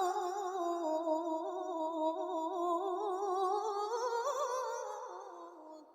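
A woman's voice in melodic Quran recitation (tilawah), drawing out one long ornamented melisma that wavers in pitch and climbs a little about four seconds in, then fades away near the end.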